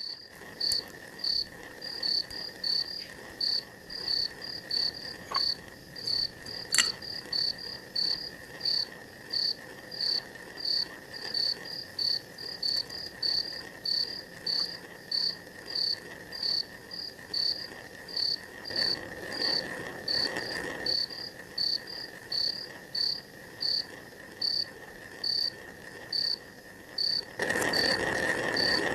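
Crickets chirping: short high chirps repeating evenly about twice a second over a steady, lower insect drone. The background noise swells near the end.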